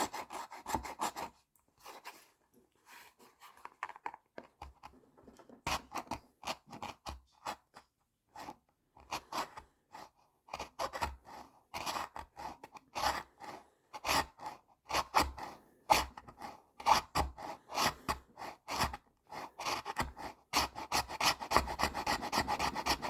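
A hand file rasping back and forth in short, quick strokes, widening a hole cut through a leather case. After a sparse stretch of a few seconds near the start, the strokes come steadily and grow denser toward the end.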